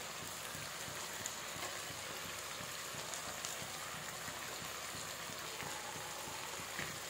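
Chopped cabbage, carrot and green capsicum sizzling in hot oil in a pan: a steady sizzle with a few small pops.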